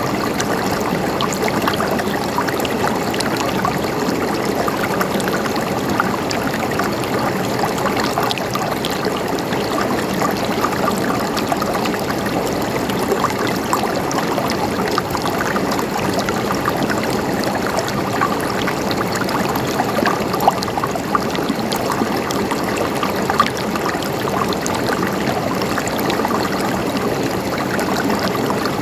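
Mountain stream gurgling steadily, with many small splashes and drips scattered through it.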